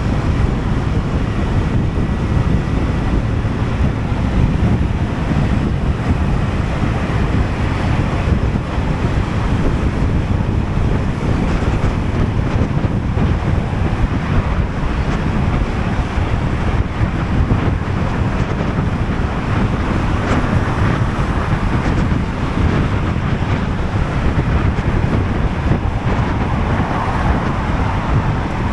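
Steady wind noise rushing over an action camera's microphone while riding a Sym Jet X 125 scooter, with its single-cylinder engine and road noise underneath.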